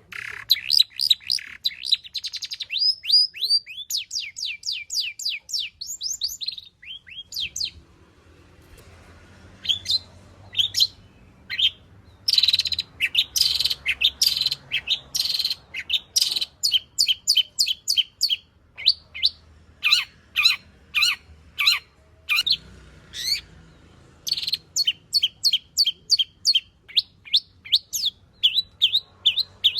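Long-tailed shrike (cendet) singing: fast runs of short, sharp chirps, several a second, broken by two short pauses. It is a varied song of the kind fanciers call 'full isian', filled with phrases copied from other birds.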